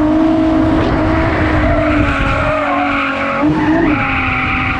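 Car engine held at high revs under a steady tyre squeal, typical of a car drifting; the engine note dips briefly and picks up again near the end.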